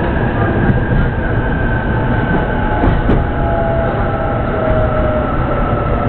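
Joban Line electric train running on the track: a steady rumble with a thin whine that slowly falls in pitch in the second half.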